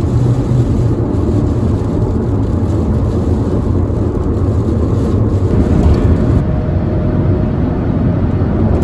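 Steady low rumble of a vehicle in motion, with no clear breaks or changes.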